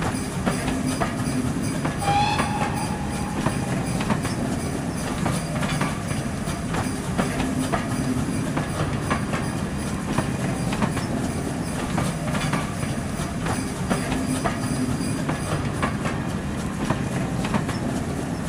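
Railway carriages rolling past, a steady rumble with regular clickety-clack of wheels over rail joints. A brief high tone sounds about two seconds in.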